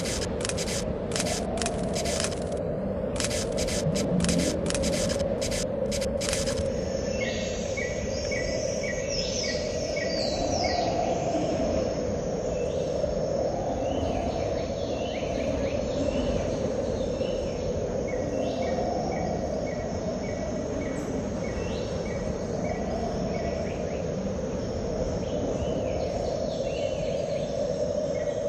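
Ambience of a steady noise bed with short, even runs of insect-like chirps and brief falling calls. A series of sharp crackling clicks runs through the first six or so seconds and then stops.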